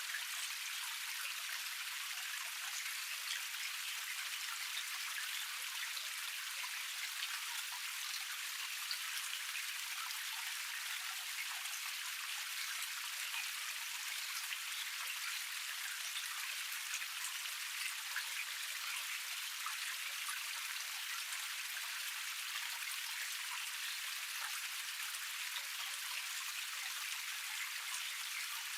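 Small cascade waterfall splashing steadily over rocks, a constant hissing patter of falling water.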